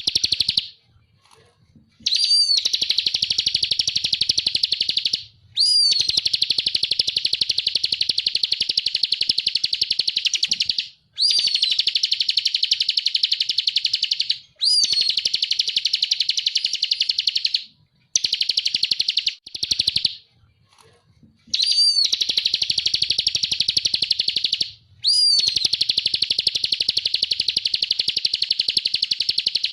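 Bar-winged prinia (ciblek kristal) singing: bout after bout of a very fast, high trill, each a few seconds long and opening with a quick upward note, with short breaks between.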